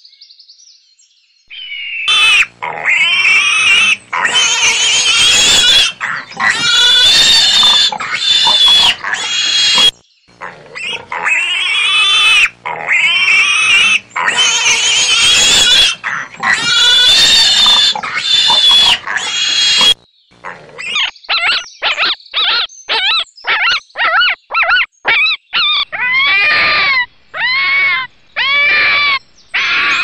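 Piglets squealing loudly and continuously, the same stretch of squeals heard twice over. About two-thirds of the way through this gives way to a red fox's calls: quick short yips, then longer arched yelps.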